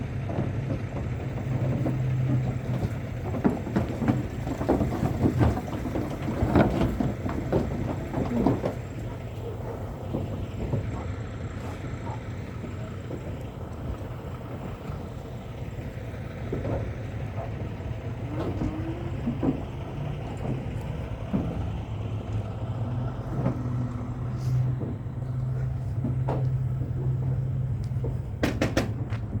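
Steady low hum of an idling truck, with irregular knocks and clatter for the first nine seconds or so.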